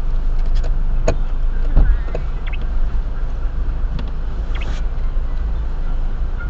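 Steady low rumble of a car heard from inside the cabin, with a few short knocks: one about a second in, a louder one just before two seconds, and another about four seconds in.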